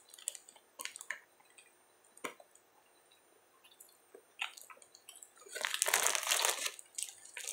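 Faint mouth sounds of someone chewing a mouthful of sandwich, a few soft clicks. About five and a half seconds in, a thin plastic sandwich bag crinkles for over a second as it is handled.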